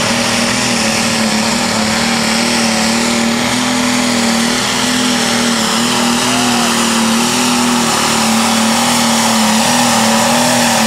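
Super stock diesel pulling tractor running wide open under load as it makes a pull down the track. The engine holds one loud, steady pitch that wavers slightly.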